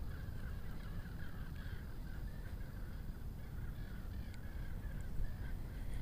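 Birds calling over and over in short, wavering calls, over a steady low rumble.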